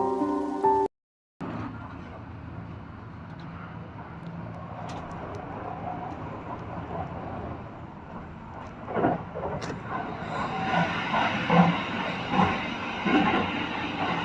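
Background music stops about a second in. After a short gap comes railway platform sound: the steady hum of a Kintetsu limited-express train standing at the platform. People's voices join from about nine seconds in.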